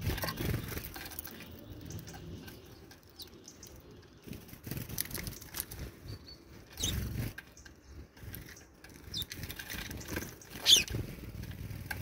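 Small birds at a feeder: a flutter of wings as one flies in at the start, then rustling and a few short, high chirps, the loudest near the end.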